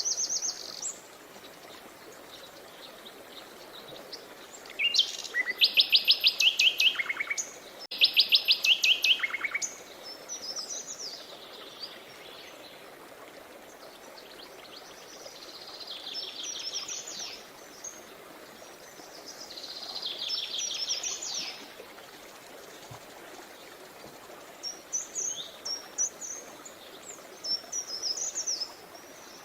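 Songbirds singing over the faint, steady rush of a river: two loud, rapid trills about five and eight seconds in, then softer trills and quick chirps through the rest.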